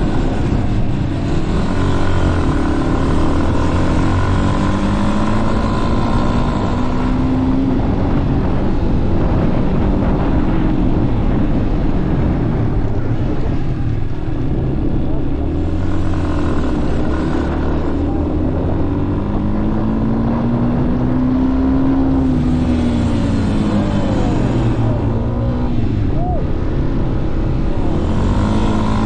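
Motorcycle engine running while riding, over a dense low rumble, its pitch rising and falling slowly as the bike speeds up and slows.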